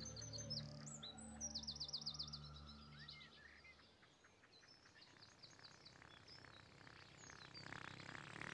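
Songbirds chirping and twittering faintly in quick high bursts, with a low held musical tone fading away over the first three seconds.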